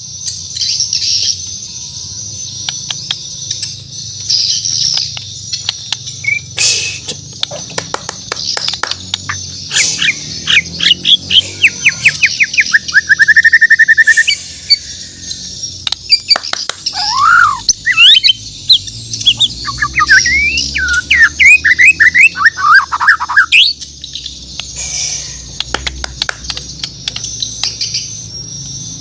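Bornean white-rumped shama (murai batu) singing: bursts of rapid whistled notes, a fast trill, and quick rising and falling slurred notes, over a steady high-pitched background buzz.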